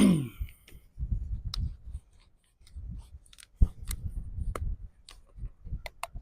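Hands handling objects: scattered sharp clicks and rustling, with bouts of low rumbling handling noise in between.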